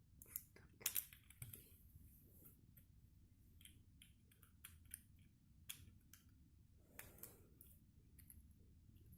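Small plastic construction-set pieces clicking and clattering as they are handled and snapped together, in scattered light clicks with a few louder ones near the start and about seven seconds in.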